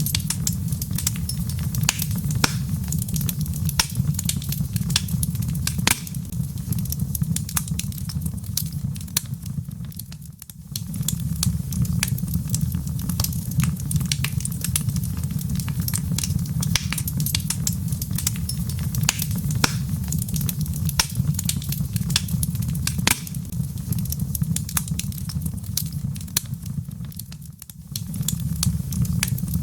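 Log fire in a fireplace crackling, with frequent sharp pops and snaps of burning wood over a steady low rumble of flame. The rumble dips away briefly twice, about a third of the way in and again near the end.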